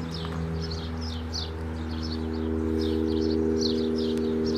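Small birds chirping rapidly, several short falling notes a second, over a steady drone of several low sustained tones that shift in pitch just after the start.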